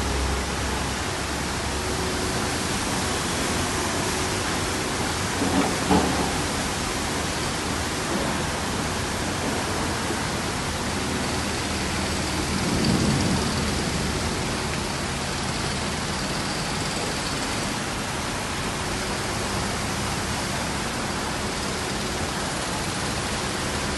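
Steady, dense hiss of a heavy rain downpour, with two brief louder swells about six seconds in and around thirteen seconds.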